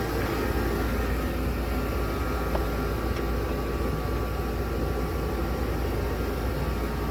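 Dodge Ram pickup's V8 idling steadily after a sub-zero cold start, a constant low rumble.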